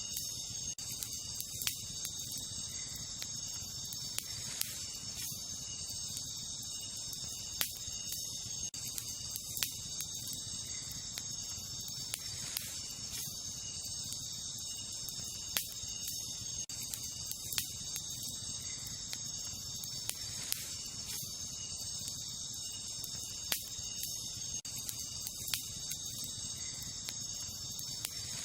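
Wood campfire crackling, with sharp single pops every second or two, over a steady high chorus of night insects such as crickets.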